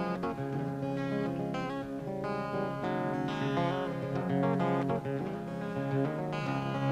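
Acoustic guitar played solo, a busy instrumental passage of plucked and strummed notes.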